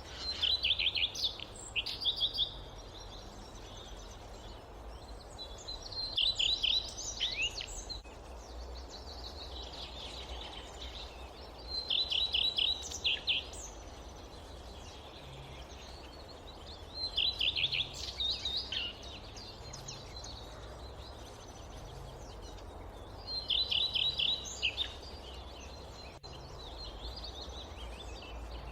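A songbird repeating the same short song, a quick run of high notes, about every five to six seconds, over a steady low rumble of forest ambience.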